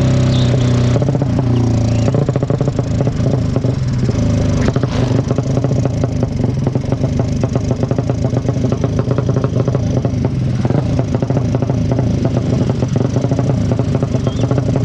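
Drag-race motorcycle engine running loud, held at high revs and then, about a second in, dropping to a lumpy low-rev run with a fast, even pulse of firing strokes.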